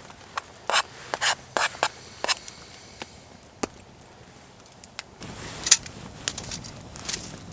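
Knife cutting vegetables on a cutting board: a quick run of irregular sharp cuts and scrapes, then a few more scattered strokes, with a low background hiss rising about five seconds in.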